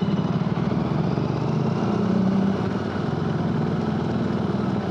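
Royal Enfield Interceptor 650's parallel-twin engine running under way through an aftermarket AEW exhaust: a steady, rapidly pulsing exhaust note that drops a little about halfway through.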